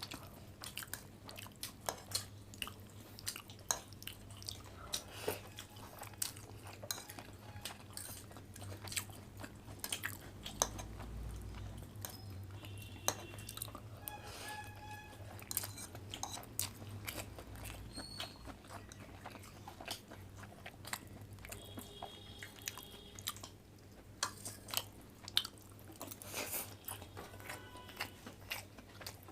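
Close-up eating sounds: chewing, wet mouth smacks and slurps, with small clicks of utensils, over a faint steady hum.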